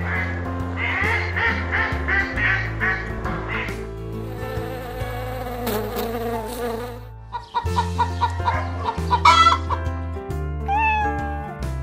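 A string of animal sounds over background music: a wood duck giving quick rising squeaky calls, then honeybees buzzing on the comb for about three seconds, then a run of short sharp calls and a single cat's meow near the end.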